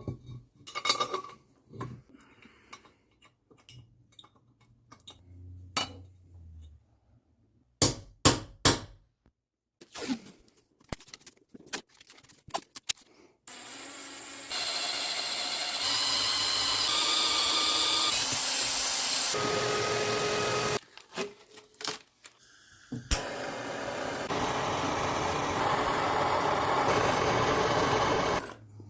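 Scattered clicks and knocks of metal tools being handled, then a power tool running at a broken bolt in two long steady runs, the first about seven seconds and the second about five, its pitch shifting a little under load.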